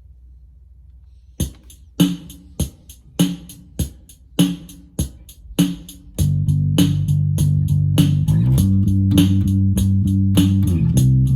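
Built-in rhythm box of a Roland Micro Cube Bass RX amp starting a drum pattern, with hits about every 0.6 s. About six seconds in, a bass guitar through the amp joins with long held notes that change pitch, louder than the drums.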